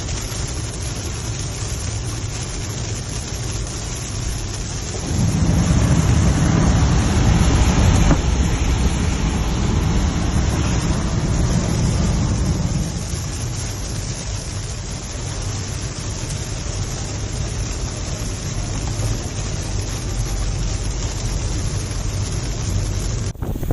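Steady rain with a long low rumble of thunder that swells about five seconds in and rolls away over some eight seconds.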